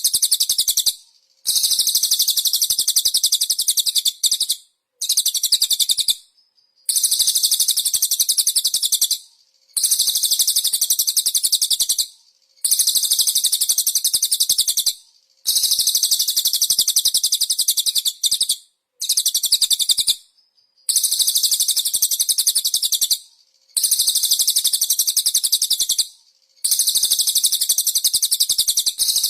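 Songbird singing a very high, rapid chattering song in repeated bouts of about two to three seconds, each broken off by a short pause.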